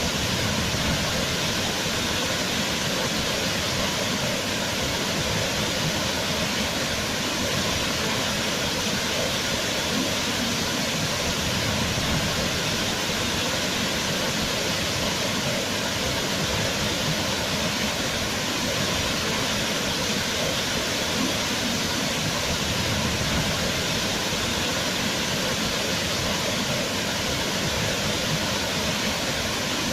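Waterfall: water falling and splashing in a loud, steady rush with no breaks or changes.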